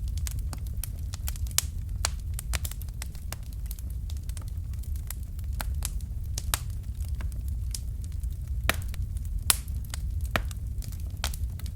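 Wood fire crackling: a steady low rumble of the flames with irregular sharp pops and snaps, a few louder ones standing out.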